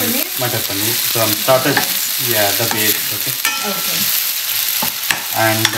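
Sliced onions and green pepper sizzling as they fry in a stainless steel pan, stirred with a spatula that scrapes and taps against the pan. This is the frying of the onion base for matar paneer.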